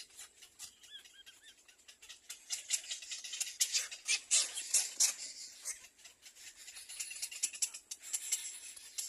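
Nestling birds at the nest: rapid rustling and clicking with a few short, high chirps, growing denser and louder near the middle.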